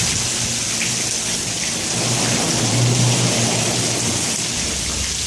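Heavy rain pouring steadily and splashing on the ground, with a low rumble swelling about two seconds in and fading by three and a half.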